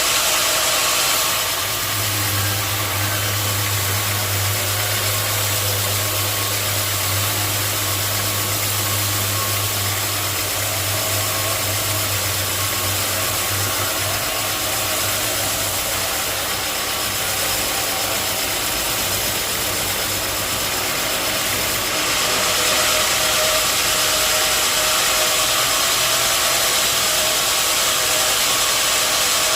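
Sawmill machinery running steadily: a loud, even machine noise with a low hum that fades out about halfway through, and a brighter hiss that grows louder about two-thirds of the way through.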